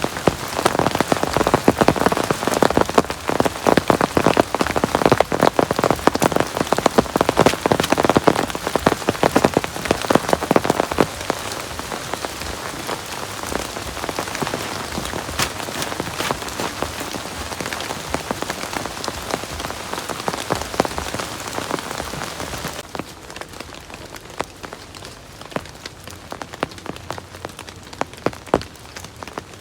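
Heavy rain falling on a surface, a dense patter of drop impacts. It eases about a third of the way in, and near the end it suddenly drops to a lighter, sparser patter.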